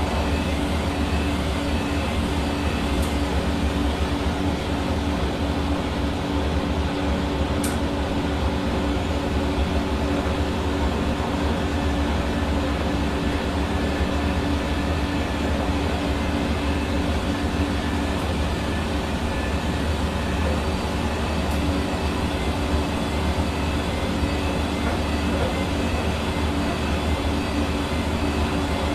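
Hair dryer running steadily: an even whir of air with a constant motor hum. There is a faint tick about seven seconds in.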